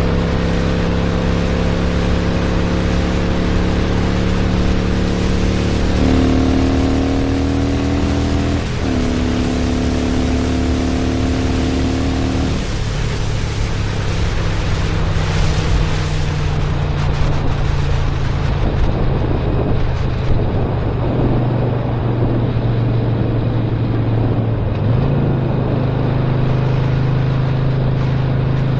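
Harley-Davidson Sportster Roadster's 1200 cc V-twin with a Stage 1 upgrade, running on the road under way, with rushing noise over it. The engine note climbs about six seconds in, dips and picks up again near nine seconds, then drops to a lower steady note about twelve seconds in and steps up a little near the end.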